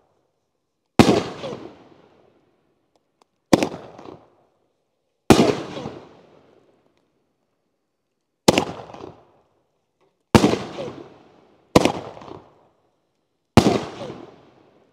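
A 9-shot Nishiki willow firework cake firing: seven sharp booms, one to three seconds apart, each dying away over about a second.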